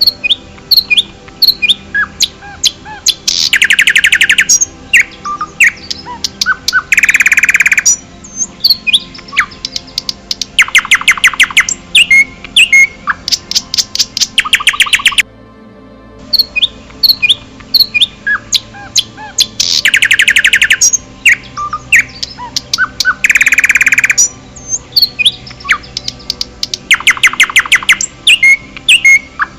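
Songbirds chirping and singing: loud, rapid trills of evenly spaced notes every few seconds, with short whistled chirps between them. After a brief gap about halfway through, the same passage repeats, as a looped recording.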